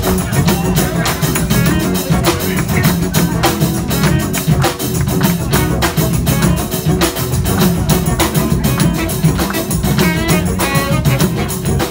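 Live rock band playing: electric guitar over a drum kit and bass, with a steady driving beat.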